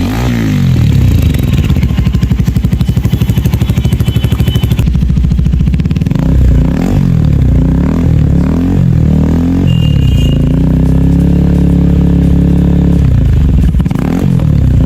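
Loud KTM Duke 390 single-cylinder engine breathing through an aftermarket Akrapovic exhaust, revved up and down repeatedly. Near the end it is held at a steady higher rev before dropping off.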